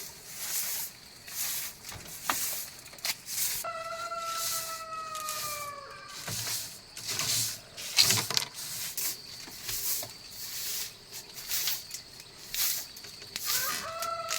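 A rooster crowing in the distance, one long call slowly falling in pitch a few seconds in and another starting near the end. Irregular knocks and rustles from handwork run between the crows.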